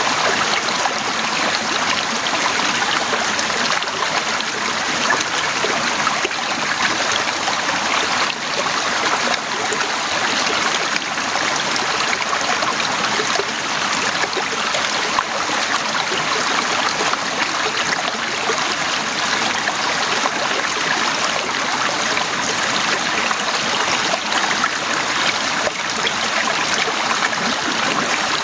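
Heavy rain falling steadily: a dense, even hiss full of fine pattering drops.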